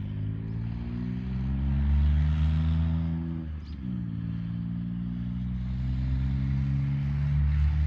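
Smart car engine pulling away and accelerating. It rises in pitch for about three seconds, drops sharply at a gear change about halfway through, then climbs again more gently.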